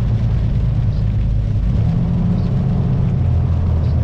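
Diesel engine of a Kenworth semi truck running, heard from inside the cab as a steady low drone while the truck slows. Its pitch drops about three quarters of the way through, and a faint tick repeats about every second and a half.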